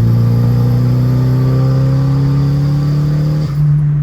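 Nissan SR20 four-cylinder engine of an S13 pulling under acceleration, its note rising slowly, then dropping and changing about three and a half seconds in. It is being driven to check a random misfire, and the driver can't tell whether it is clearing up.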